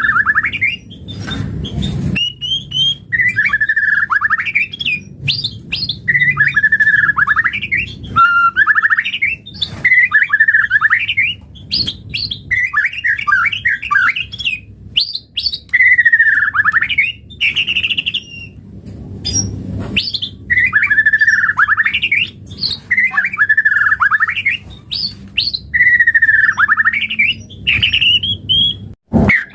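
White-rumped shama (murai batu) singing: a string of short, rapid warbled phrases about a second long, repeated with brief pauses between them.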